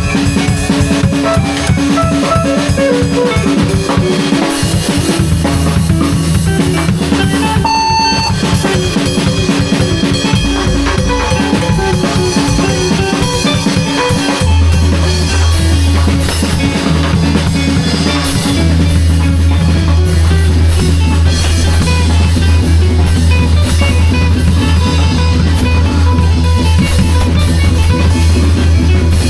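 Live band improvising: a drum kit playing a busy groove with kick, snare and rimshots over sustained bass notes and other instruments. A bright ringing note with clear overtones sounds about eight seconds in.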